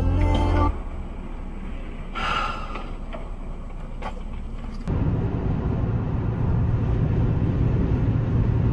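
Steady low rumble of a car driving, heard from inside the cabin, starting abruptly about five seconds in. Before it, a stretch of music cuts off under a second in, followed by a short breath-like sound about two seconds in.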